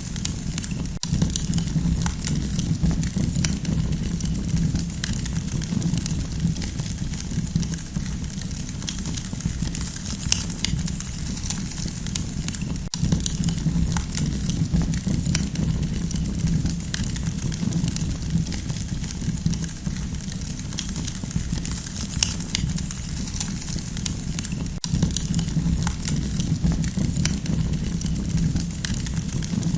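Campfire burning, with frequent sharp crackles and pops scattered over a steady low rumble.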